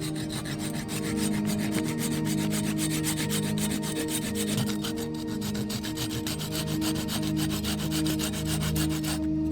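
Rapid, continuous rasping scrape that stops just before the end, over steady soft background music.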